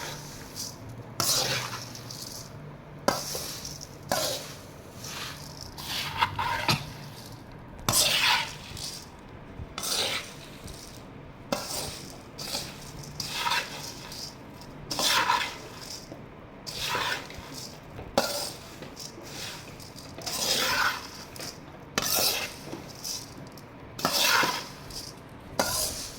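A spoon stirring and tossing puffed rice through its seasoning in a pan: repeated rustling scrapes, one about every one to two seconds.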